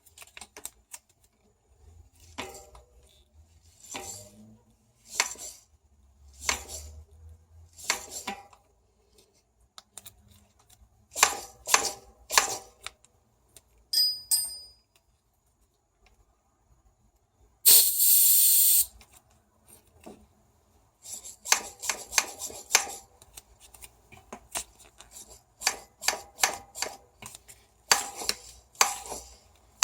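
RockShox Sektor Silver TK Solo Air suspension fork being pumped, clicking with each compression stroke. First the strokes come about every second and a half, then in quicker runs, with one short loud hiss about two-thirds of the way through. The click comes from the inner tube in the spring leg, which has about 1 mm of play and knocks against the top cap.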